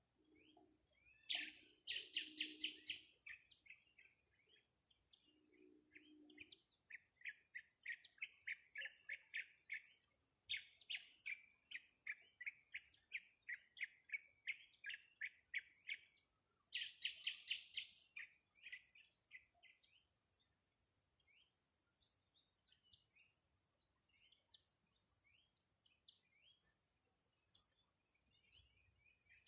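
A songbird singing long, fast trills of short repeated high notes, several in a row, then scattered single chirps through the second half. In the first six seconds a low, steady-pitched sound comes in four short bursts beneath the song.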